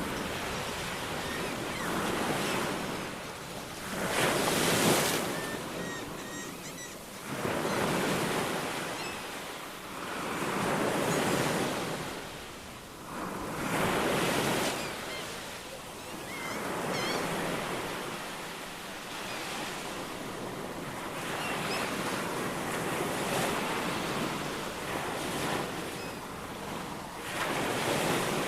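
Ocean surf, waves washing in and breaking one after another every few seconds with a steady rush between, a little wind on the microphone, and a few faint bird chirps.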